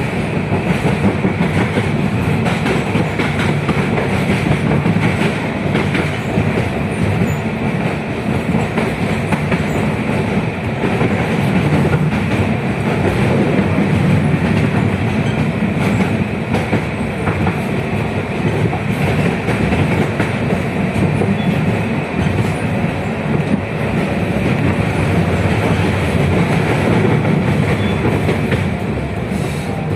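Inside a 71-619KT tram car under way: a steady rolling noise of steel wheels on the rails, with scattered faint knocks from the track.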